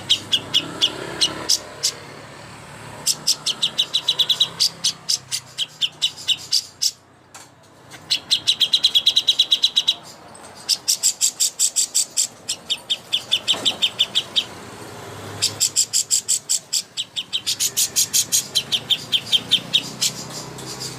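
A songbird singing long, rapid chattering trills of even, sharp notes, about ten a second, in bursts of one to two seconds with short breaks between them.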